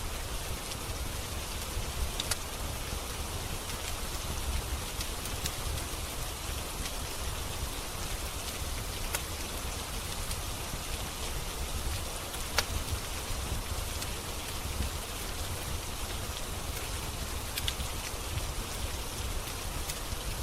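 Steady rain falling, with a few sharp crackles and pops from a wood fire in a fireplace scattered through it, the loudest pop a little past the middle.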